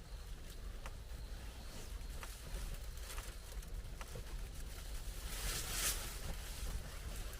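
Scattered raindrops dripping and ticking, with a short hissing rustle about five and a half seconds in.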